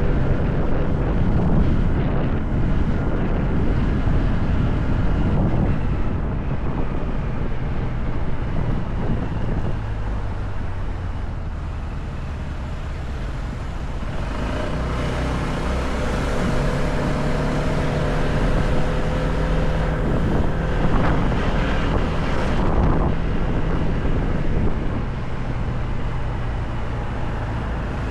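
Motorcycle engine running while riding, with wind rushing over the microphone. The engine note comes through more clearly about halfway through.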